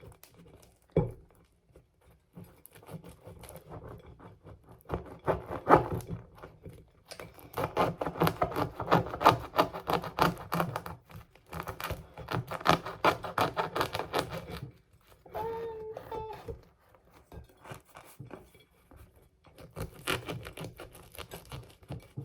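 A knife sawing through a crusty baguette, rapid back-and-forth strokes crackling and scraping through the crust in several bursts with short pauses between.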